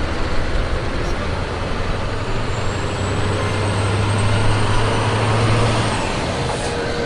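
A truck engine running under a loud rushing noise, with a steady low hum strongest from about two to six seconds in.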